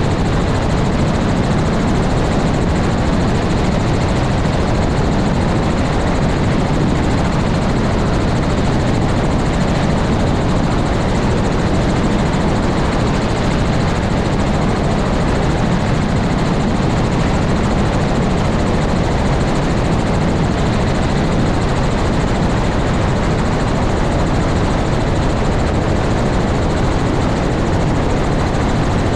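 Helicopter rotor and engine noise, loud and steady throughout with no rise or fall.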